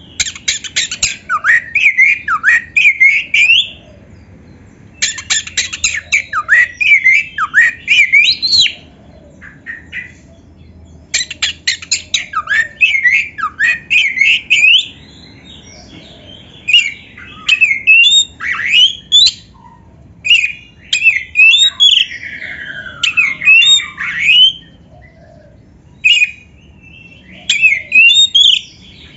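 Oriental magpie-robin (kacer) singing: loud phrases of rising and falling whistles mixed with harsh, scratchy chattering notes, in bursts of a few seconds separated by short pauses.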